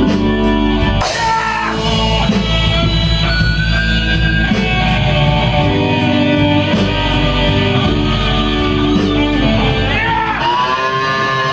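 Live blues-rock band playing loud, with electric guitar lines that bend and slide in pitch over bass and a steady cymbal beat.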